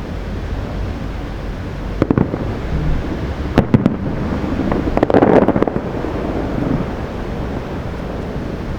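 Aerial firework shells bursting over a steady low rumble: a sharp bang about two seconds in, two more about a second and a half later, then a quick cluster of bangs around the middle.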